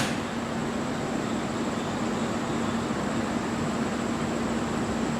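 Steady electric hum of a train standing at the platform, with a constant low tone and a faint constant high whine.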